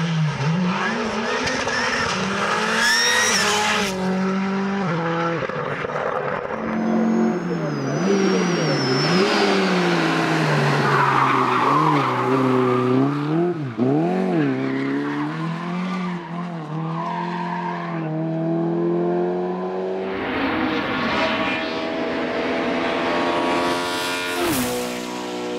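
Hillclimb race car engine revving hard, its note rising and falling again and again through gear changes and lifts, with a high tyre squeal about seven to nine seconds in.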